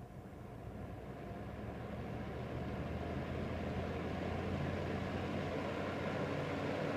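Pelonis fan-forced space heater's three-blade fan on the fan-only setting, spinning up from a standstill: the rush of air with a low hum grows louder over about four seconds, then runs steady. The fan is slow to come up to speed, which the owner puts down to heavy blades.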